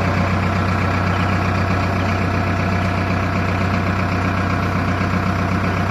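Heavy diesel engine running steadily at a constant, even speed, with a deep low hum and no revving.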